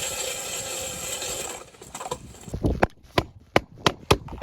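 A motor saw cuts steadily through wood, then stops abruptly about a second and a half in. Sharp wooden knocks of hammering follow, about three a second.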